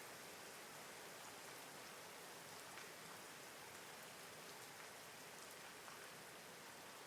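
Steady, faint rainfall, an even hiss with scattered faint drop ticks.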